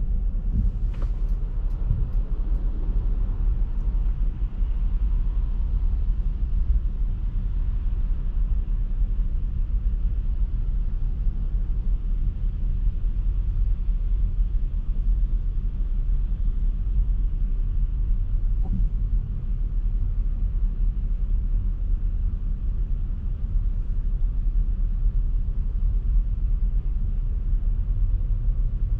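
A car driving, giving a steady low road-and-engine rumble with no change in pace, with a couple of faint ticks about a second in and again past the middle.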